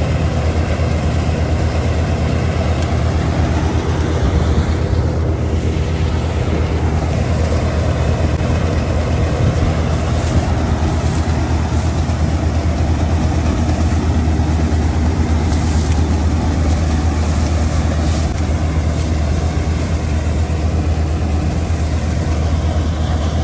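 Tractor engine running loudly and steadily, with a brief shift in pitch about five seconds in.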